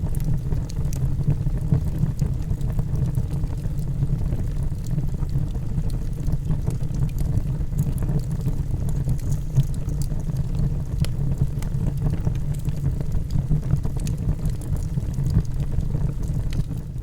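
Logs burning in a fireplace: a steady low roar of the flames with scattered small crackles and pops, beginning to fade out at the very end.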